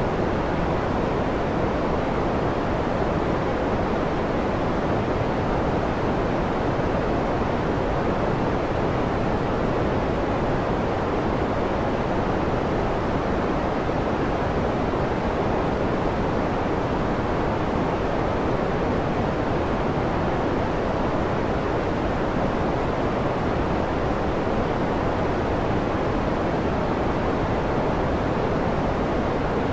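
Steady, unchanging noise of a white-noise sleep track, with no swells or breaks. Most of its energy sits in the low and middle range, so it sounds deeper and softer than a bright hiss.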